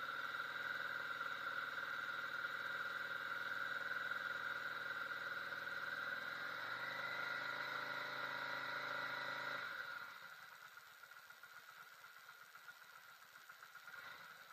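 Yamaha V Star 650 V-twin engine running steadily, a deeper note joining about six and a half seconds in, then cutting out suddenly about ten seconds in.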